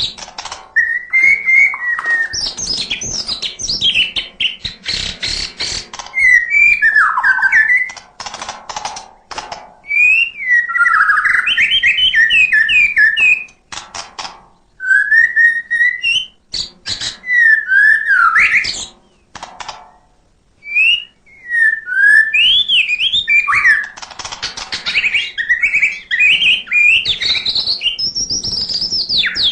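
White-rumped shama (murai batu) in full song: a fast stream of varied whistled phrases sliding up and down, broken by runs of sharp clicks and mimicked calls, with two brief pauses.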